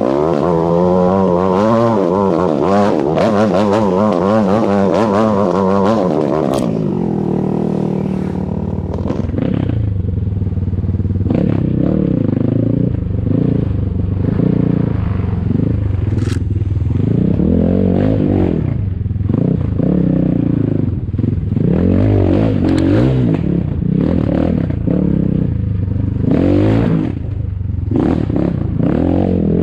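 Enduro motorcycle engine being ridden off-road. The revs waver quickly for the first few seconds, then rise and fall every second or two as the throttle is worked, with some clatter over it.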